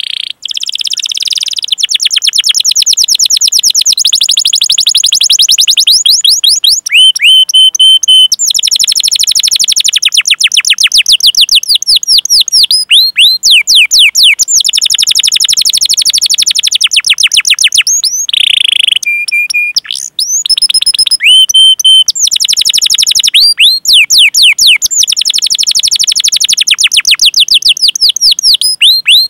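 Domestic canary singing a long rolling song: runs of very fast repeated chirps ('cuit cuit') joined into trills, broken now and then by short held whistled notes and brief pauses.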